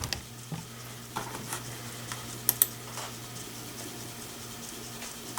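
A few scattered light clicks from someone working at a computer, two of them close together about two and a half seconds in, over a steady low hum.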